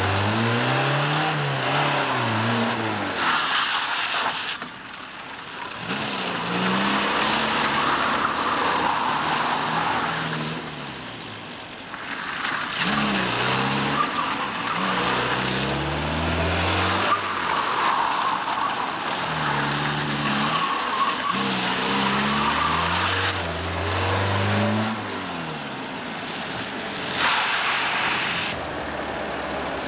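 Polski Fiat 125p engine revving hard and dropping back over and over as the car is thrown around a cone course, the pitch climbing and falling every few seconds. Tyres squeal through the turns.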